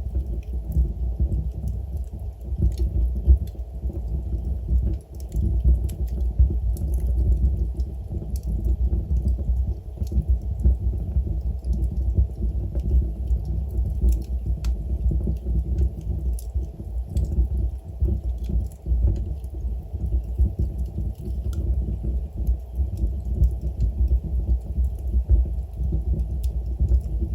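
Log fire burning in a fireplace: a steady low rumble of the flames, with faint scattered crackles and small pops of the burning wood.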